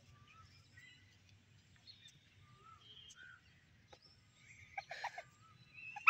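Near silence with faint bird chirps scattered through it, and a short cluster of clicks about five seconds in.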